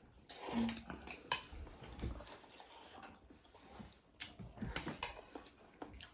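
Eating sounds: chewing, with scattered light clicks and rustles of utensils and dishes.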